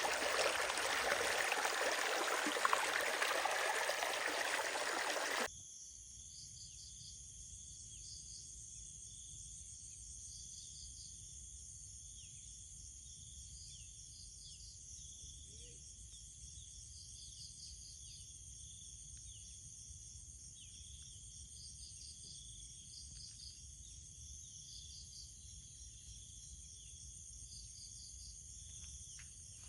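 A loud steady rushing noise, like running water, that cuts off abruptly about five seconds in. After it comes a quieter chorus of insects, high steady trills with rapid pulsing, over a low rumble.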